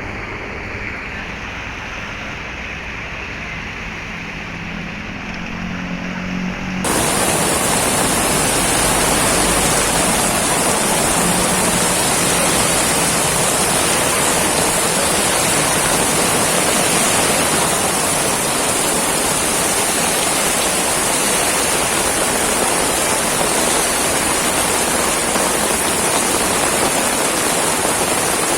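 Heavy tropical downpour: a dense, steady rush of rain. About seven seconds in it suddenly becomes louder and brighter.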